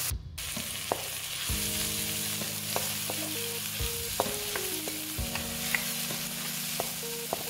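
Shrimp and chopped vegetables sizzling in a hot wok, stirred with a wooden spatula that scrapes and taps against the pan now and then.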